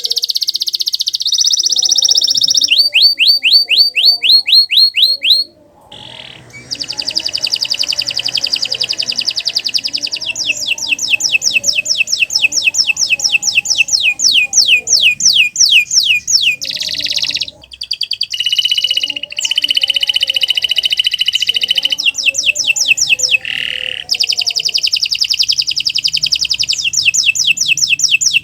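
Domestic canary singing a long song made of fast trills, each a quick run of the same sweeping note repeated many times before switching to a new one. It breaks off briefly about five seconds in and again past the middle.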